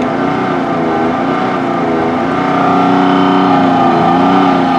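2009 Nissan Frontier's V6 engine pulling hard under load while driving, a loud, steady drone whose pitch rises a little after about two seconds. The truck is down on power and misfiring on cylinders 2, 4 and 6, which the mechanic suspects comes from a restricted exhaust.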